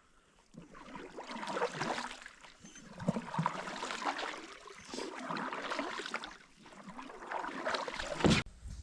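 Canoe paddle strokes pulling through the water, the splashing rush swelling and fading every second or two, with a sharp knock near the end.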